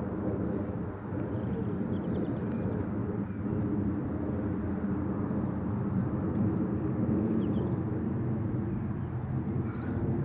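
Airliner flying over: a steady low rumble that holds level throughout.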